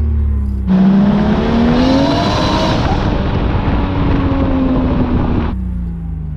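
Turbocharged 1JZ inline-six in a Lexus LS400 pulling hard under full throttle: the engine note jumps to a loud, rasping roar and climbs in pitch, dips briefly around the middle and climbs again, then the throttle is lifted near the end and the revs fall away.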